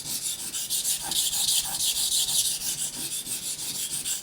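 Steel knife blade being stroked back and forth across a wet sharpening waterstone, a rhythmic gritty hiss of several strokes a second.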